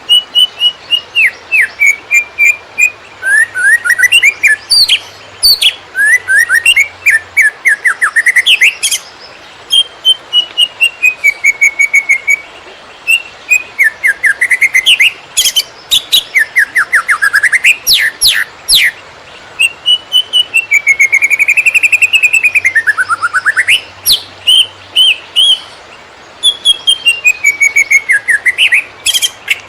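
Cucak ijo (green leafbird) singing a fast 'konslet' song: rapid trills of clipped notes and whistled phrases that sweep up and down, in bursts with short pauses between them.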